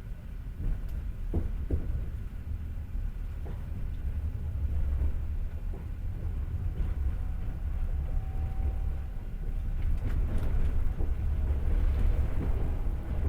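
Passenger train running on the rails: a steady low rumble of the wheels, with scattered clicks and knocks from the wheels and car, growing a little louder in the second half.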